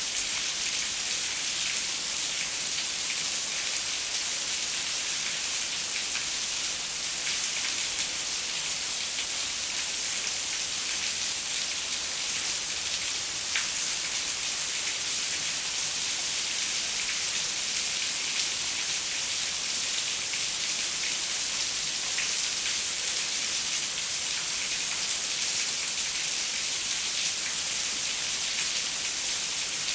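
Steady rain pattering on a window, an even hiss with scattered small drop ticks.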